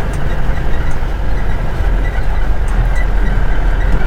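Safari vehicle driving, its engine and body noise a steady low rumble heard from on board.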